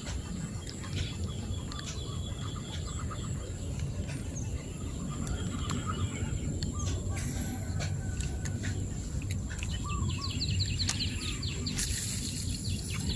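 Outdoor rural ambience: birds chirping and calling over a steady low rumble, with a quick run of high falling chirps about ten seconds in.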